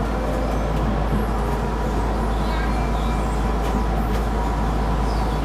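Keisei Line rapid electric train running along the track, a steady running noise of wheels and motors with a faint steady tone.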